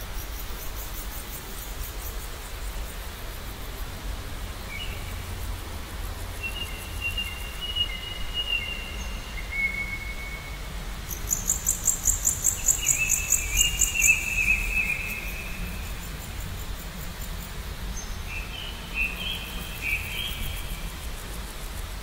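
Birds singing short whistled phrases, with a fast, very high-pitched trill at the start and louder again around the middle, over a low steady background rumble.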